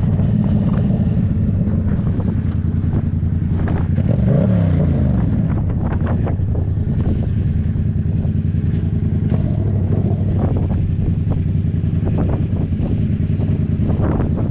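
Yamaha MT-07's parallel-twin engine running steadily under way, with wind buffeting the microphone; about four seconds in the engine pitch briefly shifts.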